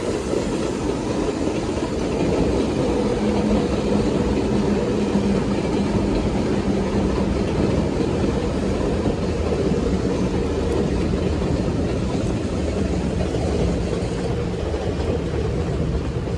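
Commuter train running past along the riverbank in heavy rain: a steady rumble of wheels and motors under the hiss of falling rain.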